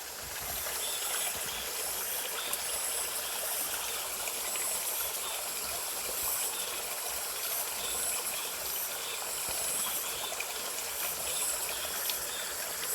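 Mountain stream water flowing and rushing steadily over rocks.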